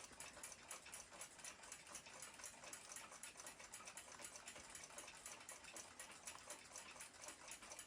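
Faint, rapid, even ticking of a mechanical clock, about five ticks a second.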